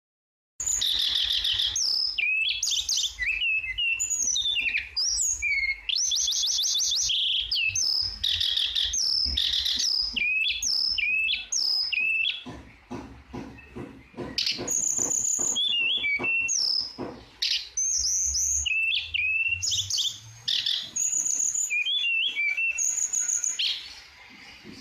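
Tledekan songbird singing a fast, varied song of high whistled notes, down-slurred calls and quick buzzy trills, almost without pause, easing into softer, clicky notes about halfway through before picking up again.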